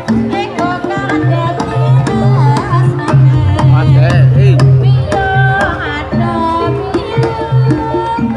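Live traditional Javanese ensemble music: hand drums beat a steady rhythm under a wavering, sliding melody.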